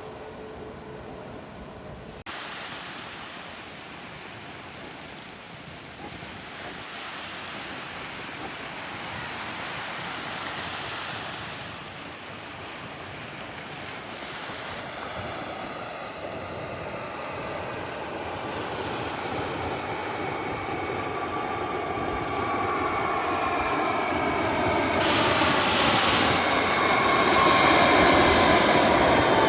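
Jet airliner approaching low, its engine noise growing steadily louder. It is loudest near the end, where its whine drops in pitch as it passes overhead.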